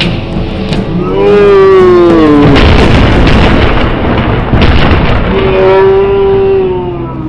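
A close lightning strike's thunder: a loud, heavy boom and rumble a little over two seconds in, lasting about two seconds. A person gives a long drawn-out yell just before it, slowly falling in pitch, and another long yell after it.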